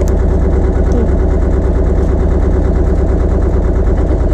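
Tour boat's inboard engine running steadily, heard from on board as a loud, even, low hum.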